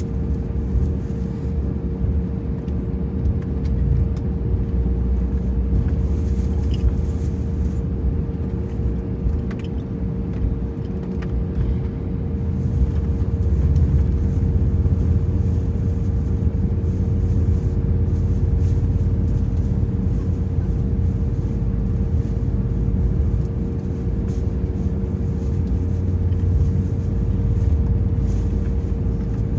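Cabin noise of an Airbus A320 taxiing after landing: a steady low rumble with a constant hum underneath.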